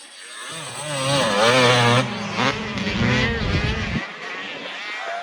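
Off-road racing engines on a motocross track, several overlapping, their pitch swinging up and down quickly as the riders work the throttle, loudest about a second or two in.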